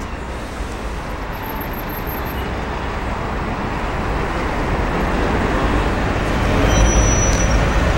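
Road traffic noise, with a steady rumble and hiss that grows slowly louder as a vehicle draws nearer.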